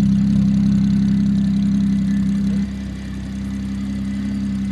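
Built BMW N54 inline-six with a single turbo, idling with a steady low drone. The drone drops away suddenly a little past halfway. The clutch is called noisy as hell.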